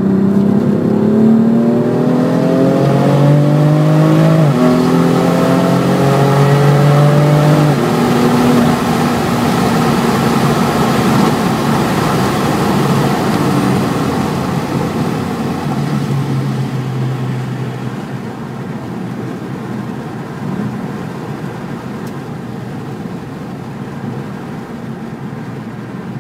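2018 BMW M4 Competition's twin-turbo inline-six heard from inside the cabin, accelerating hard through the gears. The engine note rises, drops at an upshift about four and a half seconds in, and rises again. About eight seconds in it eases off into a steadier rushing noise that slowly gets quieter.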